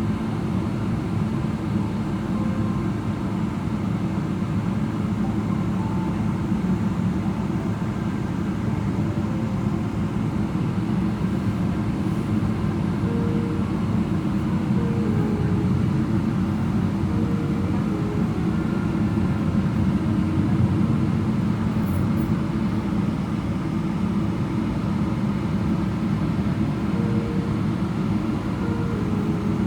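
Steady cabin rumble inside a taxiing Boeing 777-300ER, its GE90 engines running at taxi power. Now and then faint short tones step up or down in pitch over the rumble.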